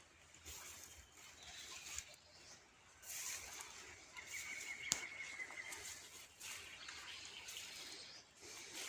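Small songbirds chirping and twittering faintly, with a short buzzy trill about halfway through, over a faint steady hiss. A single sharp click sounds near the middle.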